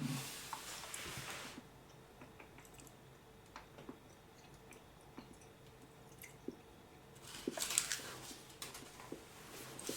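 Faint chewing of a hard honey-almond toffee, with small wet mouth clicks. Two louder, noisier bursts come at the start and about three-quarters of the way through.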